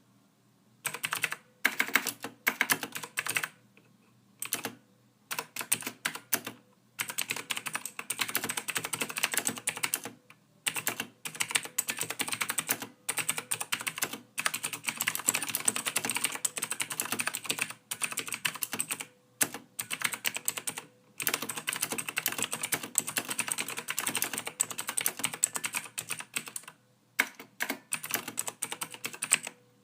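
Typing on a computer keyboard: fast runs of key clicks, each a few seconds long, broken by short pauses.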